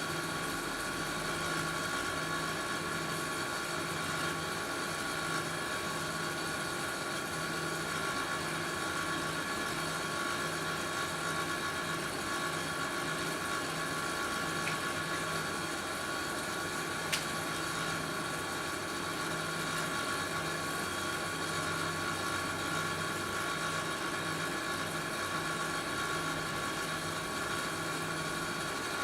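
A steady mechanical hum with a few constant whining tones, like a small motor or appliance running, with a single click about seventeen seconds in.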